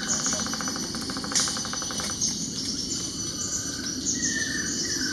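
Buff-rumped woodpecker calling: a rapid, even trill of about two seconds, then shorter falling notes near the end. Steady high-pitched insect buzzing runs underneath.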